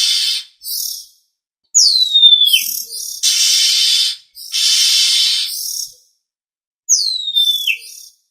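Oriental magpie-robin (kacer) calling: long harsh rasping calls, each about a second, alternating with two high whistled notes that slide down in pitch and end in quick chirps.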